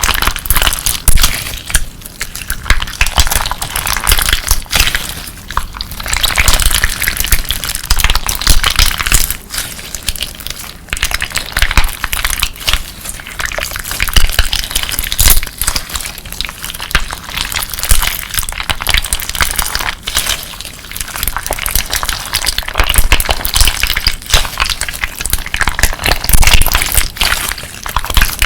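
Clear slime mixed with colourful crystal pieces being squeezed and kneaded by hand, giving a dense run of crunchy crackles and clicks that swell and ease every few seconds.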